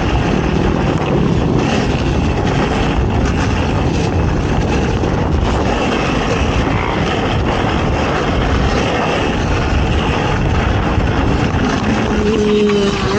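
ATV engine running hard and continuously through off-road racing, loud and steady. A brief steady pitched tone rises above it near the end.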